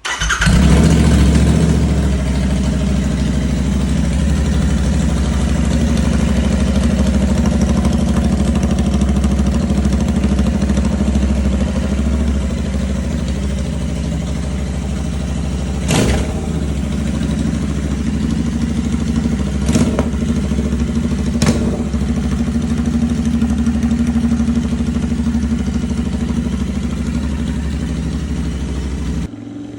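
Royal Enfield Interceptor 650's 648 cc parallel-twin engine, running with its stock exhaust removed. It starts with a brief surge, then settles into a steady, loud idle. Three sharp cracks come about two-thirds of the way through.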